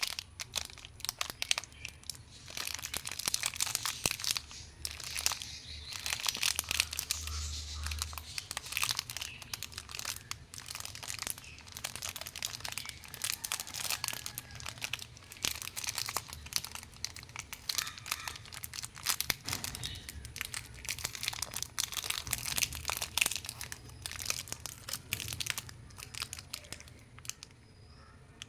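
Plastic Snickers wrapper crinkling and tearing as it is handled and opened: a dense, irregular run of crackles that dies down near the end.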